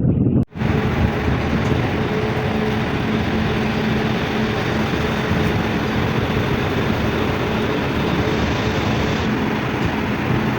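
Tugboat engines running steadily under way: a dense, even mechanical noise with a faint steady hum, starting abruptly after a short break about half a second in.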